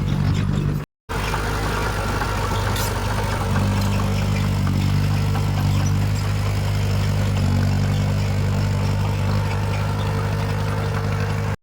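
Heavy earthmoving machine's diesel engine running steadily, its low hum growing fuller from about three and a half seconds in. A momentary drop to silence about a second in.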